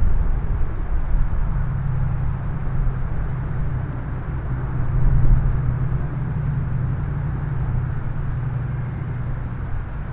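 Strong thunderstorm with gusty wind: a steady low rumble and rushing noise that swells about five seconds in and eases toward the end.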